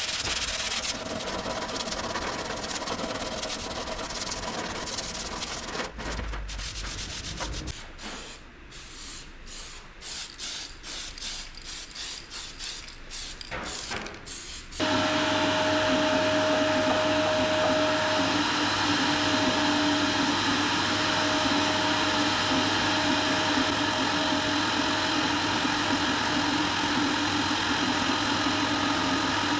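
Body filler on a car's front wing being block-sanded by hand with repeated rasping strokes. About halfway through, a loud, steady machine hum with a constant pitch starts abruptly and takes over.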